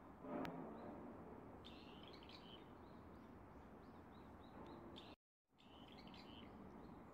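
Small birds chirping faintly and intermittently over steady outdoor background hiss, with a brief louder rustle and click about half a second in. The sound cuts out completely for a moment a little after five seconds.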